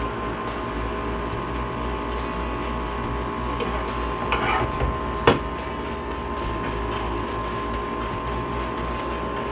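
Paratha frying in ghee on a flat non-stick tawa, sizzling steadily over a constant hum. About four seconds in the spatula scrapes under it as it is flipped, ending in one sharp tap.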